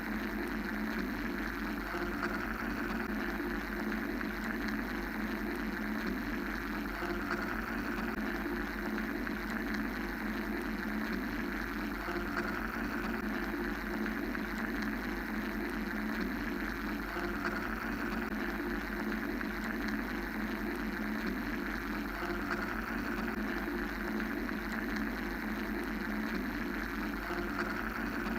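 Steady machine-like white-noise drone: a low hum under bands of hiss, with slow, uneven swells in the upper hiss.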